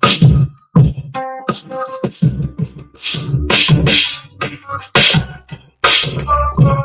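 Hip-hop beat playing from a Maschine MK3: punchy kick drums and snappy snare and hi-hat hits, with short pitched melodic notes coming in now and then.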